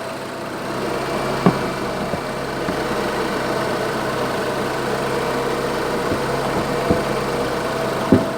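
Jaguar XF's 2.0-litre Ford EcoBoost turbocharged four-cylinder petrol engine idling steadily on freshly fitted iridium spark plugs, the idle settling down to normal as the engine warms up. Three short clicks sound over it.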